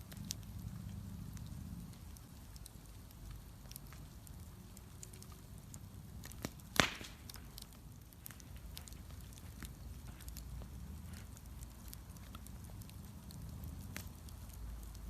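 Bonfire crackling, with scattered small pops and one loud sharp crack about halfway through, over a low steady rumble.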